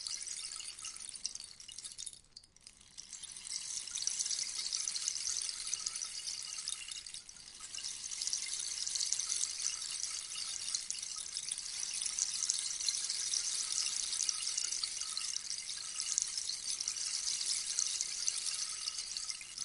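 Rainstick: a dense trickling patter of seeds or pebbles falling through the tube, like soft rain. The patter dies away about two seconds in and more slightly around seven seconds, then picks back up.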